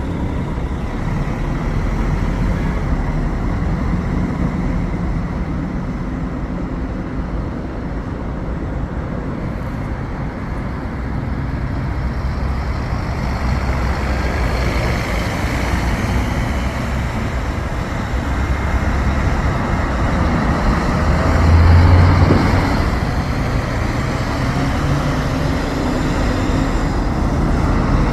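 Scania K380 bus's diesel engine running, with the engine drone swelling to its loudest about 22 seconds in, mixed with road traffic noise.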